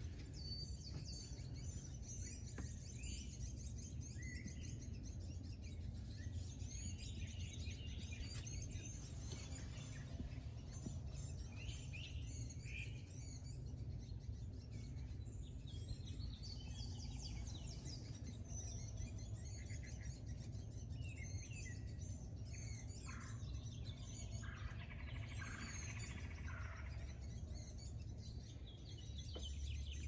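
Songbirds chirping and singing, many short calls and warbles overlapping, over a low steady rumble.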